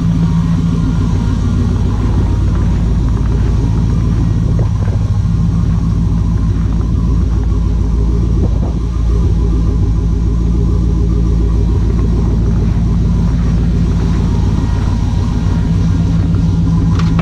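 LS V8 engine in a Chevy C10 pickup idling steadily while warming up after a cold start with the coolant at minus 14 °C, exhaust running through dual Thrush glasspack mufflers.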